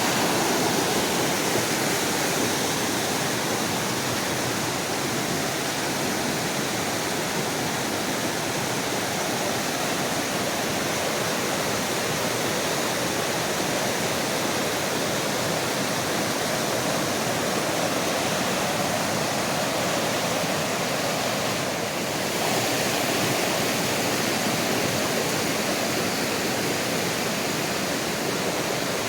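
Rain-swollen mountain creek rushing in full spate, a steady roar of running water.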